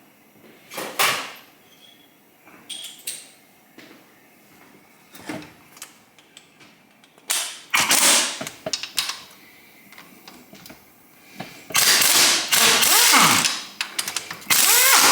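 A socket wrench on a half-inch extension works fasteners on a motorcycle engine, with metal tool clanks and clicking. It comes in short spells, with the loudest, longest stretches in the last few seconds.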